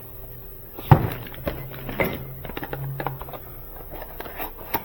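Knocks and clicks of parts and packaging being handled and rummaged through, with the loudest knock about a second in.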